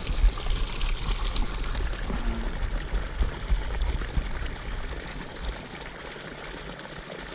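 Water pouring steadily into a pond from an inflow where fresh water is pumped in. A low rumble sits under it in the first half, and the sound settles quieter after about five seconds.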